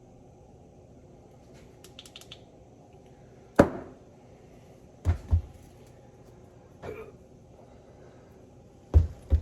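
Sharp metal knocks as a 1978 Ford steering box is being taken apart: faint clicks about two seconds in, one loud knock with a short ring about three and a half seconds in, then pairs of knocks around five and nine seconds.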